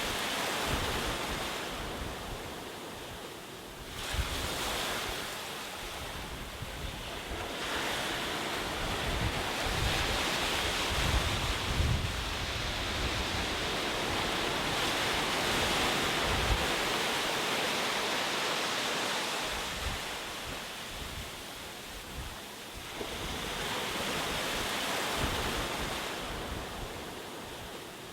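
Ocean waves breaking and washing up on a beach, the surf swelling and ebbing in slow surges several seconds apart, with a long sustained wash in the middle.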